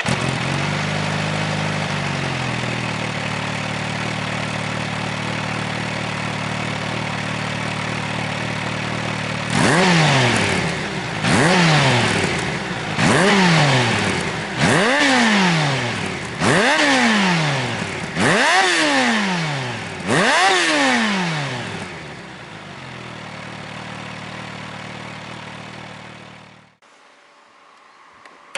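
Kawasaki Ninja H2 SX's supercharged inline-four, fitted with a Nojima DLC Rock-On slip-on muffler, idling just after starting, its idle dipping and settling in the first two seconds. About ten seconds in it is blipped seven times, roughly one blip every 1.7 s, each rev falling straight back to idle. It idles again, then is switched off near the end.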